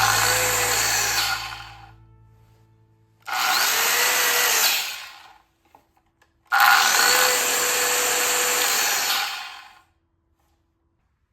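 RYOBI dust-collecting circular saw switched on three times. Each run starts sharply, holds steady for about one to three seconds and then winds down. These are most likely test runs after its bearing was replaced to cure a rattling noise.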